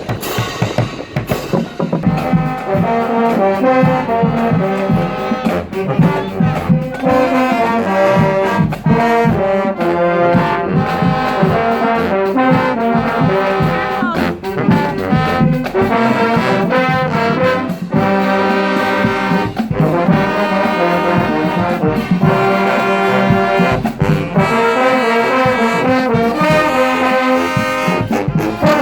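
High school marching band's brass section playing a tune, trombones and trumpets prominent, with drums under it.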